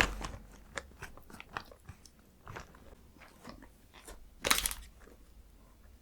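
Close-miked biting and chewing of chocolate and matcha Tico ice cream: a run of short, crisp crackling crunches, with one louder crunch about four and a half seconds in.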